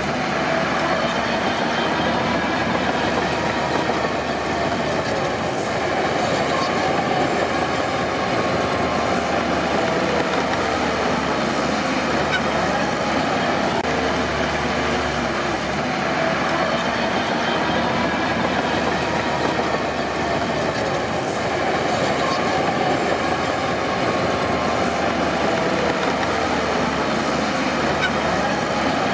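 Crawler bulldozer working: its diesel engine running steadily under load while the steel tracks squeal and clank, with a wavering squeal that rises and falls throughout.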